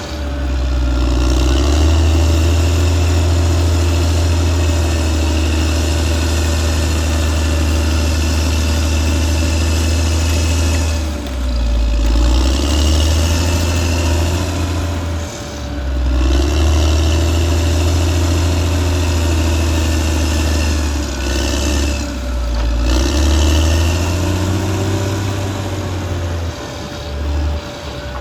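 Caterpillar D6R XL bulldozer's diesel engine running steadily under load. Its note dips briefly and recovers four times as the load changes.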